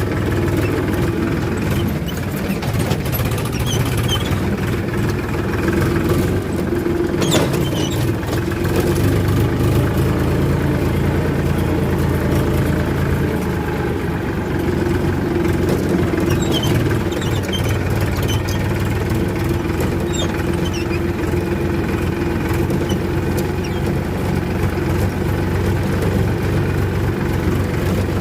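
Powertrac Euro 50 tractor's diesel engine running steadily at an even speed.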